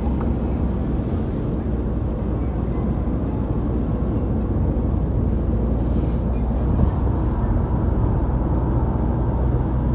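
Steady road and engine noise of a moving car heard from inside the cabin, a low rumble with two stretches of brighter hiss, one at the start and one just past the middle.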